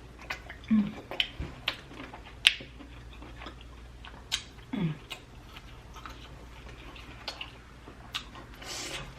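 Close-miked eating of sauce-coated prawns: wet clicks, smacks and snaps of sucking, shell peeling and chewing, irregular throughout, with two short low hums, about a second in and near five seconds.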